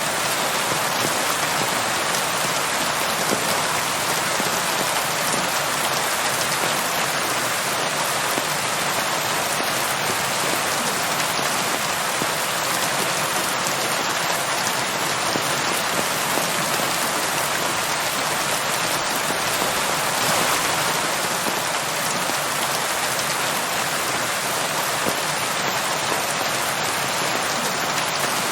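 Steady rain falling and pattering on a surface, a dense even hiss with no pauses.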